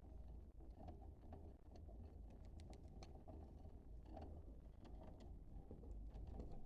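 Near silence: a steady low hum with scattered faint ticks.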